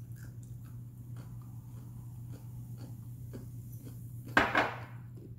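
A person chewing food with the mouth closed, faint small regular mouth noises over a steady low hum, with one short louder noise about four seconds in.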